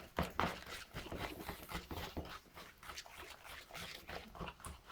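A whisk tapping and scraping against a bowl while it stirs thick chocolate cake batter, in rapid, uneven strokes of about four or five a second.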